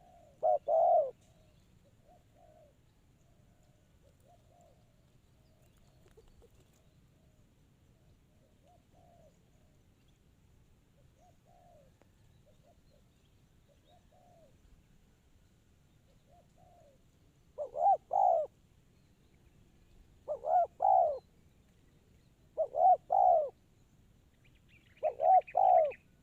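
Spotted doves cooing: a loud phrase of a few coos about a second in, then loud phrases about every two and a half seconds from about 18 s on, with fainter, more distant single coos in between.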